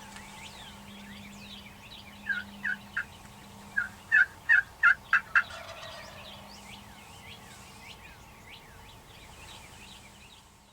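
A series of about nine loud turkey calls, coming faster toward the end, with songbirds chirping throughout.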